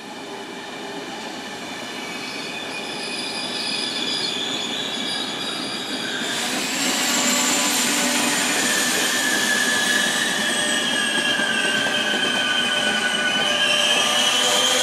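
Trenitalia push-pull regional train of passenger coaches with an E.464 electric locomotive at the rear, rolling past and growing louder. High squealing from the running gear sets in about six seconds in, several shrill whines that sag in pitch and then rise again near the end.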